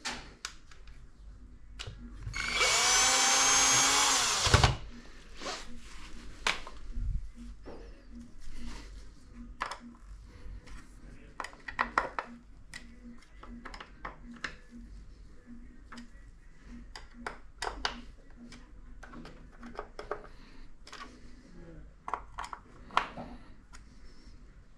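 Cordless electric screwdriver running for about two seconds near the start, its motor pitch rising, and stopping with a thump. After it come scattered light clicks and knocks of screws and parts being handled.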